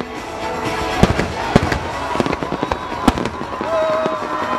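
Fireworks finale barrage: dense crackling of bursting shells and ground effects, with sharp bangs about one second, a second and a half and three seconds in. Music plays underneath.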